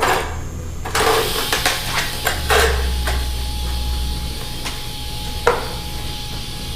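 Several sharp metallic knocks and clanks, about four in all, as the aluminium outdrive and its new skeg piece are handled and tapped during tacking. Under them runs a steady electrical hum with a hiss.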